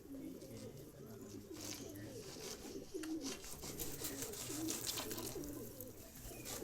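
Pigeons cooing, several low wavering calls overlapping without a break, with faint scattered rustling and crackling.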